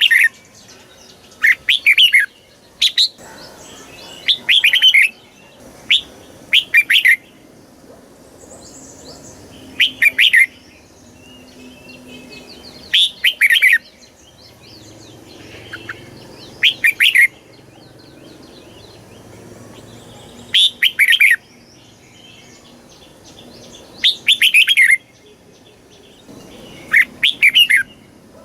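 Red-whiskered bulbul singing short, loud, bubbly song phrases, one every two to four seconds, with fainter chirping in the background between them.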